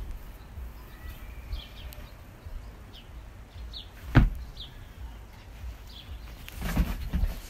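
Small birds chirping outside, short high falling notes every second or so. A single sharp thump about four seconds in is the loudest sound, and a brief rustle comes near the end.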